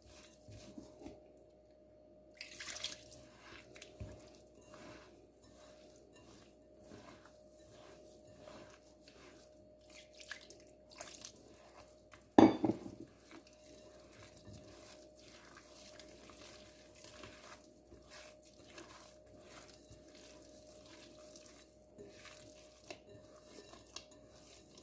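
Hands mixing dry semolina with yeast in a bowl: faint, irregular rustling and scraping of the grains, with one sharp knock against the bowl about halfway through.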